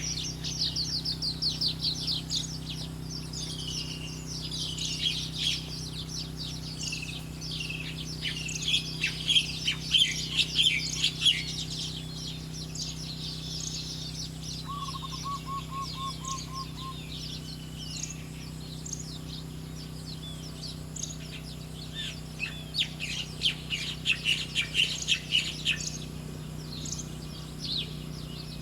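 Small songbirds chirping and singing in quick, high-pitched twittering phrases, busiest in the first half and again near the end, with a brief lower trill of repeated notes about halfway through. A faint steady hum runs underneath.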